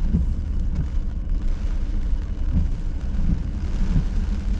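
Steady low rumble of a car's engine and tyres on a wet road, heard from inside the cabin, with the windshield wipers going.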